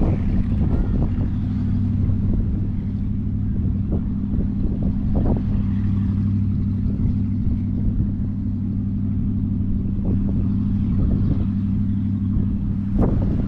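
Steady low engine drone, a motor running evenly, with a few faint knocks and some wind on the microphone; a sharper knock comes near the end.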